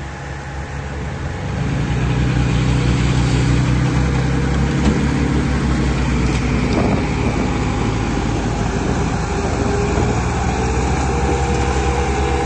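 Heavy vehicle engine running with a steady low drone that grows louder about one and a half seconds in, then holds.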